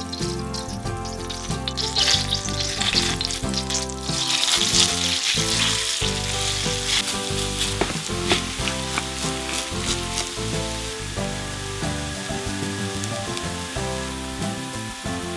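Butter and grated potato sizzling and frying in a stainless steel pan, the sizzle growing louder about four seconds in, over light background music.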